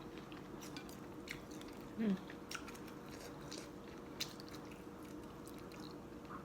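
Someone eating boat noodles: soft chewing with scattered small wet mouth clicks, and a brief voiced sound from the eater about two seconds in.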